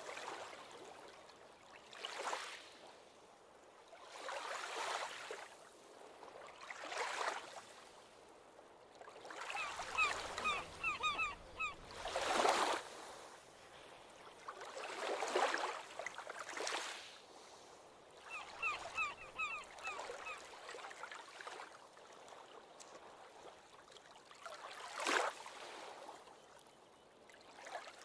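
Small ocean waves washing onto a beach, a swell of surf every two to three seconds with a lull in the last third. Over it, a bird calls twice in quick runs of short, repeated notes.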